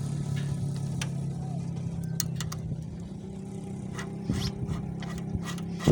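A motor vehicle engine running steadily and slowly fading away, with a few light metallic clicks over it.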